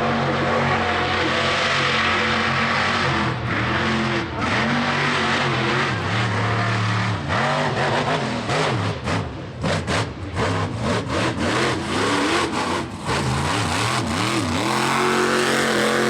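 Mega mud truck's high-horsepower engine at full throttle, held at high revs, then revving up and down with many quick throttle cuts around the middle, before holding high again near the end.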